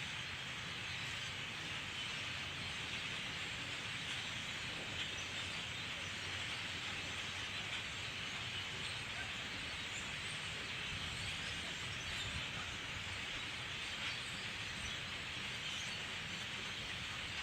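Massed chatter of a huge flock of birds, thousands calling at once and blending into a steady, dense wash of sound.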